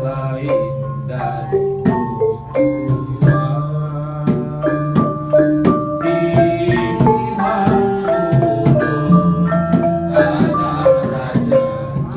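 Malay gamelan ensemble playing a melody: struck metal keys ring out note after note over a low held tone.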